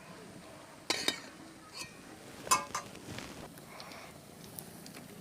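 Metal cookware clanking: a few sharp metallic knocks with brief ringing, about a second in and again about two and a half seconds in, as a wok is set onto the stove.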